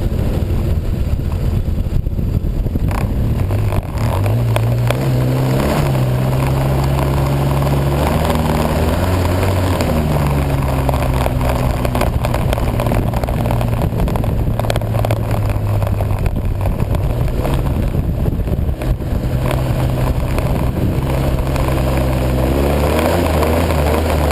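Snowmobile engine running under way, its pitch climbing a few seconds in, easing back around ten seconds, and climbing again near the end.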